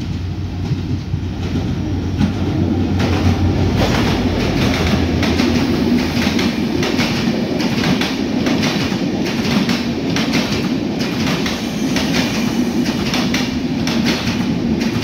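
Diesel-hauled passenger train passing at speed: the locomotive's engine hums low as it approaches, then from a few seconds in the coach wheels clatter over the rail joints in a fast, steady clickety-clack.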